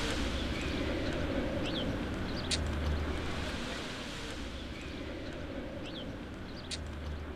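Seaside outdoor ambience: a steady haze of wind and sea, with a low rumble swelling twice and two short, high chirps about five seconds apart.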